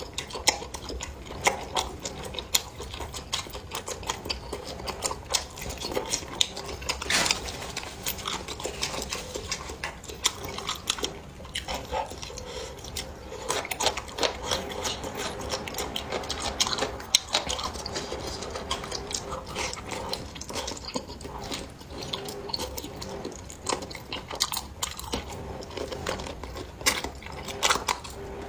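A person chewing and biting food close to the microphone, with many small irregular clicks and a few louder bites.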